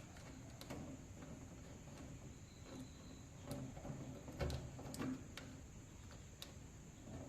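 Scattered light clicks and taps with faint rustling, typical of plastic weaving wire being pulled through and tucked on a bench frame; the loudest tap comes about four and a half seconds in.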